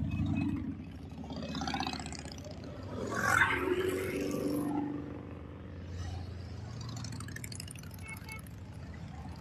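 Passing motor vehicles' engines running in a steady low rumble, with one louder pass about three seconds in that fades by about five seconds.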